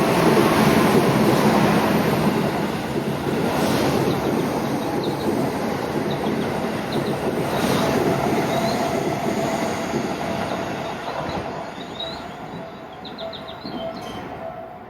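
Train running through the station without stopping: a loud rushing rumble of wheels on rail, strongest at the start and slowly fading away over the last several seconds, with a steady whine underneath.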